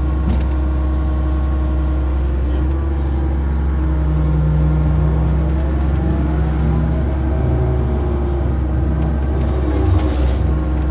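A motor vehicle's engine running steadily, with a constant deep rumble and pitched engine tones that shift slightly partway through.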